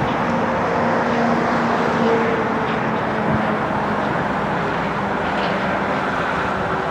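Steady drone of a Lockheed Super Constellation's four Wright R-3350 radial piston engines and propellers, with a faint hum that drifts slightly in pitch.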